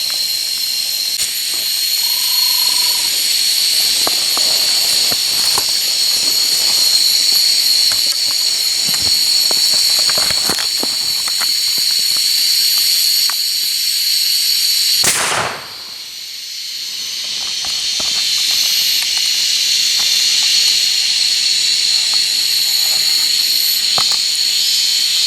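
Jungle insects buzzing loudly and steadily in several high-pitched bands, with scattered small clicks and rustles. A single loud bang about 15 seconds in is followed by the insects falling briefly quieter and then building back up.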